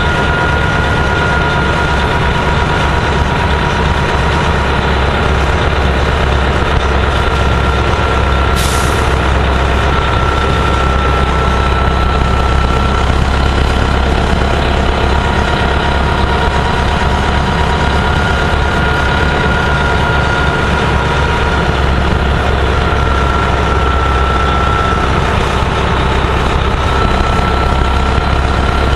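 Gillig Phantom transit bus's diesel engine running steadily, with a high whine that wavers slightly in pitch. A short hiss of air comes about nine seconds in.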